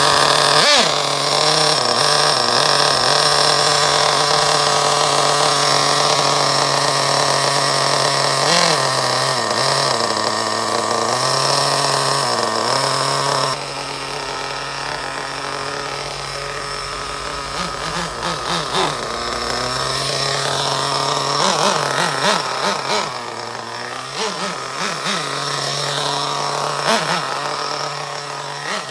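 Small nitro RC engine (O.S. Max 30VG in a 1/8 buggy) running during break-in. It holds a steady, loud idle for about the first half. Then it turns quieter, with short throttle blips and the pitch rising and falling as the buggy is driven on light throttle.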